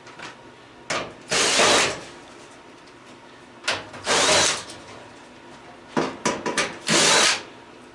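Power drill/driver running in three short bursts of about half a second each, a few seconds apart, with small clicks before each: screws being run out of a stove's sheet-metal panel.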